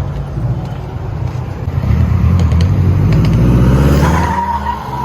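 A car engine revving and accelerating past, its pitch climbing and getting louder to a peak about four seconds in, then fading.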